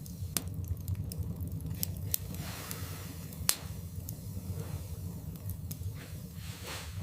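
Wood fire burning in a fireplace, crackling with sharp pops over a steady low rumble. The loudest pop comes about halfway through.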